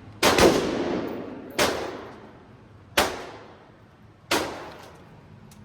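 Gunshots from shooters in neighbouring lanes of an indoor range: four or five sharp reports about a second and a half apart, each with a long echoing tail.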